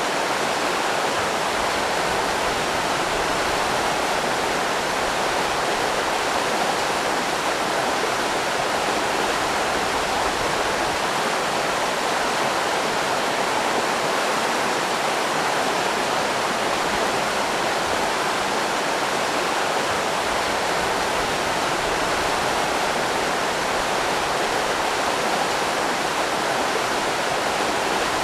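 River rapids: fast water rushing over rocks in a steady, unbroken roar.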